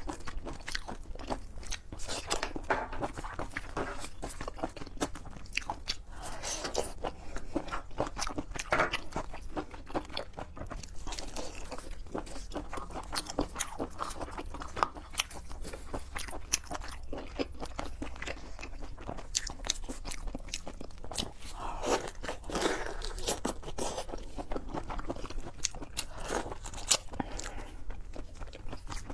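Close-up chewing and biting of seafood, with a dense, irregular run of crunchy clicks.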